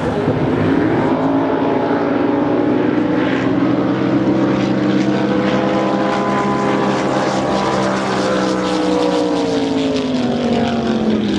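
Race boat engine running hard, its pitch climbing over the first few seconds, holding, then falling away near the end, over a steadier low engine drone.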